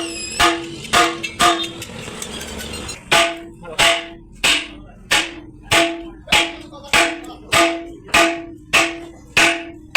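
Hammer blows on metal, each ringing briefly with a clear pitched tone: four quick strikes, a pause of about a second and a half, then a steady run of about eleven strikes, a little under two a second.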